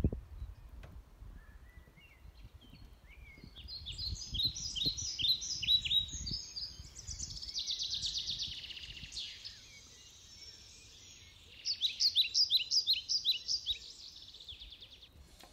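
A songbird singing phrases of short, sharp repeated notes, with a faster run in the middle and another series of repeated notes near the end, over a low rumble that fades out about halfway through.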